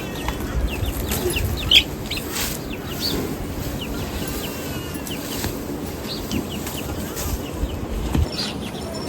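Domestic chickens clucking, with many short, high chirps scattered throughout, over a steady low rumble.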